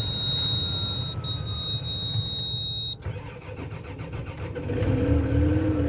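Tractor diesel engine running with a steady low rumble and a thin high whine over it for the first half. After an abrupt change about three seconds in, the engine note rises slowly near the end as it revs up.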